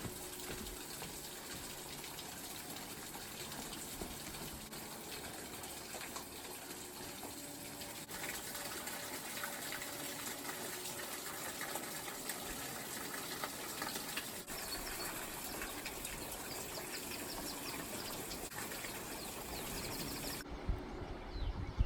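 Running water, a steady rushing sound, broken by a few abrupt cuts from one recording to the next.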